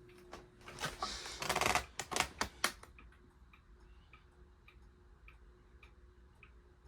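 SMC A52 ceiling fan running at medium speed with a steady hum and a light tick about twice a second. About one to three seconds in there is a cluster of loud clicks and rustling.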